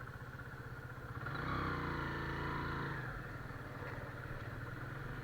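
Motorcycle engine running while riding, with a louder swell of engine and traffic noise lasting about two seconds from just over a second in.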